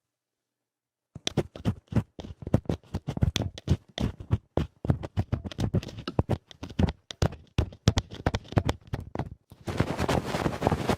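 Ear-cleaning ASMR: rapid, rough scratching and rubbing on a microphone's ear. It starts suddenly about a second in, after dead silence, and turns into a denser, continuous scratchy rustle near the end.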